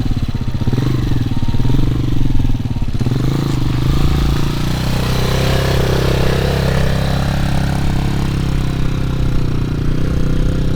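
Hawk Pro 250 dirt bike's single-cylinder four-stroke engine idling, revved in short throttle blips over the first few seconds, then a slower rise and fall in revs around the middle before settling back to a steady idle.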